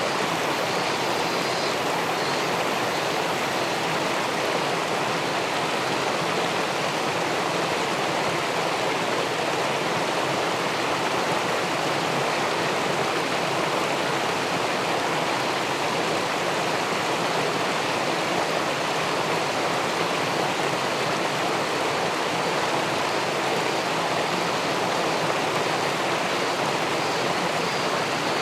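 River water pouring over a weir and churning in the pool below: a steady, unbroken rushing.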